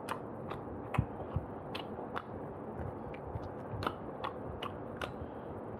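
Close-miked eating sounds of a man chewing roast chicken: chewing and mouth smacks, with about a dozen irregular sharp clicks.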